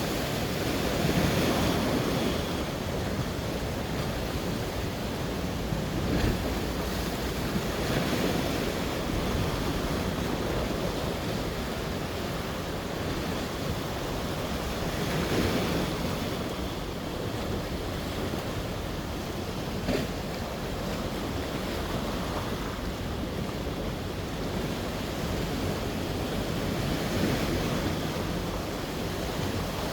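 Sea waves breaking and washing ashore, the surge swelling every several seconds, with wind buffeting the microphone.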